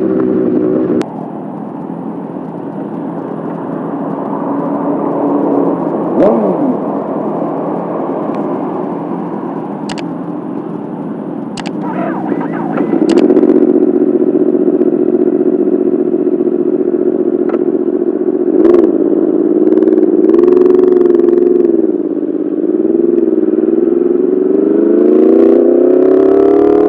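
Yamaha R1 engine through an Akrapovic full titanium exhaust under way on the road. It drops off sharply about a second in and builds slowly, with a few sharp clicks around the middle. Then it runs louder and steady with small dips in pitch, and climbs in pitch near the end as the bike accelerates.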